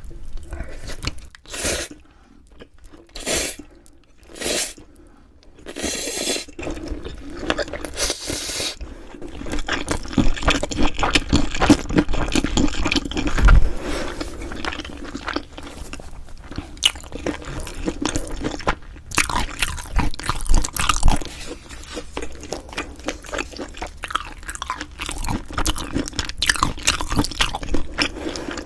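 Close-miked eating of bibim-myeon noodles and beef rib meat. A few separate bites or mouthfuls come in the first several seconds, then steady chewing with rapid clicking mouth sounds.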